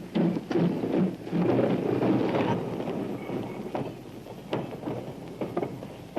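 Steam shunting locomotive chuffing in a regular beat about twice a second, the beats giving way after about two and a half seconds to quieter scattered clanks.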